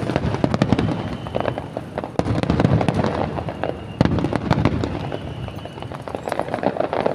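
Aerial fireworks going off in quick succession: dense crackling shell bursts over deeper booms that swell and fade several times.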